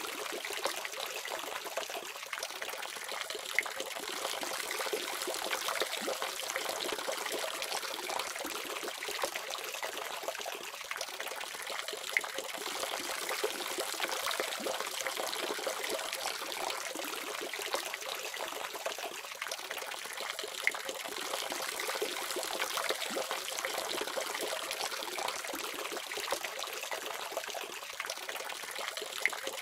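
Tap water running from a faucet in a steady splashing stream, with an occasional sharper splash standing out.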